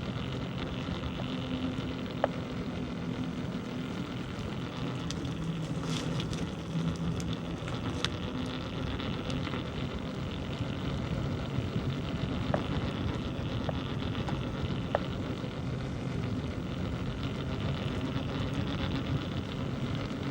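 Steady rolling and wind noise from a bicycle ride on a village road, under a faint low hum, with a few sharp ticks scattered through.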